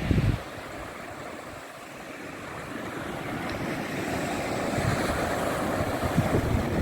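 Sea waves washing onto the shore, one wash swelling from about halfway through, with wind gusting on the microphone at the start and near the end.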